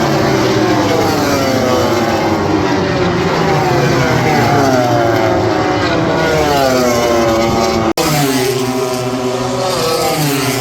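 Four-cylinder MotoGP race bikes at full throttle, several at once, their engine notes rising and falling as they accelerate and shift gears. The sound cuts out for an instant about eight seconds in.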